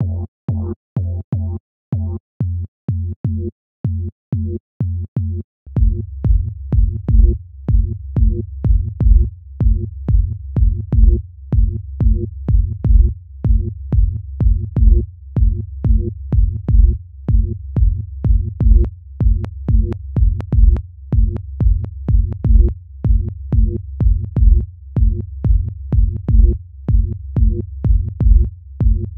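Electronic dance music loop in progress: short repeated synth bass notes over a drum-machine beat with ticking hi-hats. About six seconds in, a heavier low bass and kick layer comes in and the loop carries on fuller.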